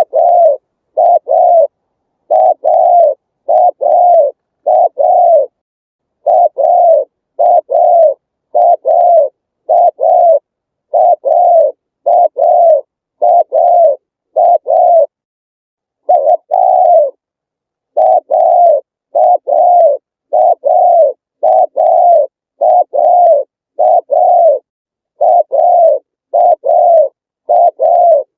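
Spotted dove cooing over and over: a long run of short, low coo notes grouped in phrases, with brief silences between phrases.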